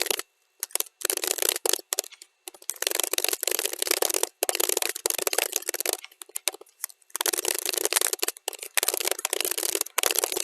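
Computer keyboard typing played at double speed, the keystrokes running together into dense, fast clicking. The typing thins out briefly about two seconds in and again around six to seven seconds in.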